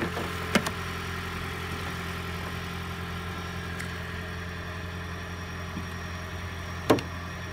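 A 2011 Toyota Prius's 1.8-litre four-cylinder petrol engine idling steadily as the running donor car in a jump start. Two sharp metallic clicks of jumper-cable clamps being handled come about half a second in and again near the end.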